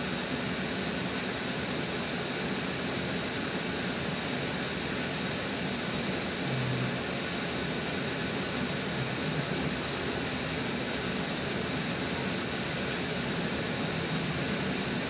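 Steady interior noise of a GO Transit passenger coach under way: the even rumble and hiss of the wheels running on the rails, heard from inside the cabin.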